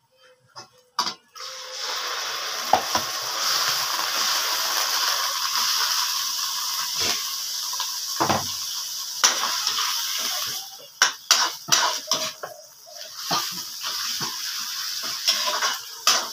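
Sliced pork liver dropped into hot oil in a metal wok, setting off a steady sizzle about a second and a half in. In the second half a spoon clicks and scrapes against the pan as the liver is stirred, while the frying goes on.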